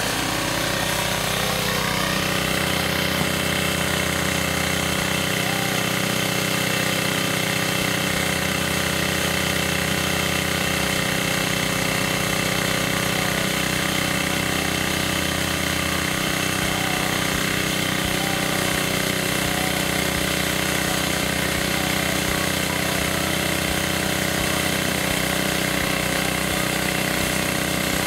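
Small engine of a homemade 2-inch gold dredge running steadily at a constant speed, driving the dredge's pump.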